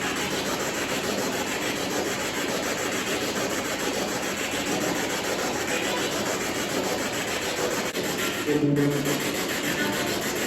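Spirit box sweeping through radio stations: continuous choppy static, with a brief snatch of pitched broadcast sound about eight and a half seconds in.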